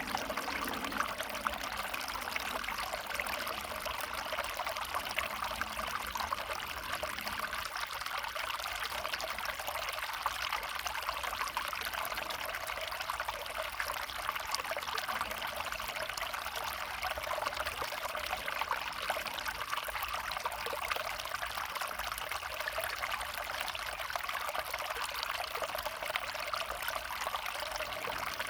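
A small stream running and trickling over stones, a steady, even rush of water.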